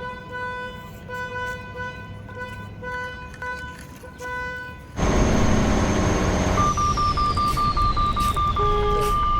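A horn-like tone sounds in short stretches, on and off. About five seconds in, a loud rumbling engine-like noise starts suddenly, with a whistle falling steadily in pitch and a fast run of beeps that turns into a steady tone.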